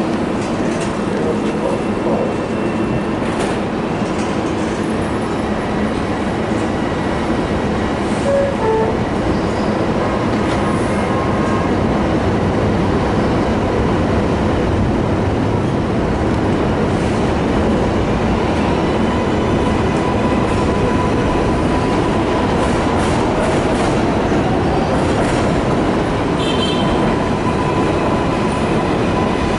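A train running on rails: steady loud rumble and clatter, with brief wheel squeal near the end.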